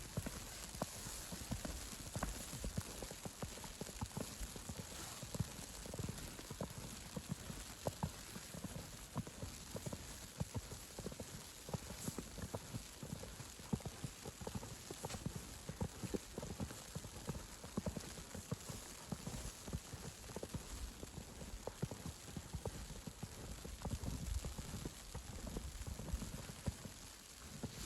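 Footsteps crunching in fresh snow at a steady walking pace, over a constant faint hiss. The steps fade out just before the end.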